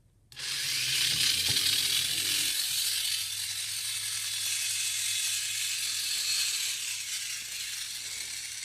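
Small electric motors of an ECX Outburst 1/32-scale RC motorcycle starting up and whirring loudly. The whir starts suddenly just after the start, rises in pitch as it spins up, then runs steadily and eases off a little near the end.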